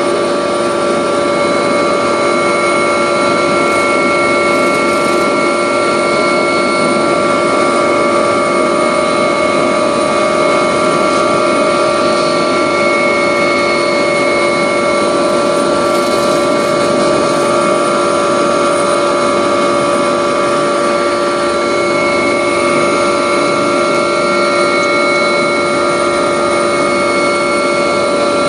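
Agusta helicopter's turbine engines and rotor heard steadily from inside the cabin in flight: a dense rushing noise with several fixed whining tones on top.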